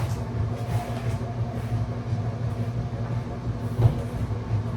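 Steady low mechanical hum and rumble from a running household machine, with a brief knock about four seconds in.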